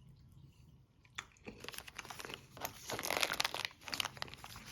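Plastic snack pouch of trail mix crinkling as it is handled. The first second is quiet, and the crinkling is loudest about three seconds in.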